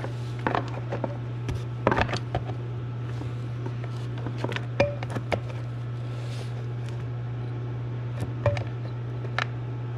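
Scattered sharp clicks and knocks, like metal parts and tools being handled, over a steady low hum.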